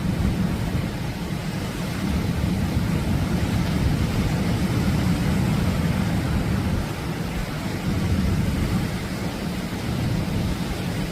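Atlantic surf breaking on the beach: a steady, deep rumble of waves that swells and eases over a few seconds at a time.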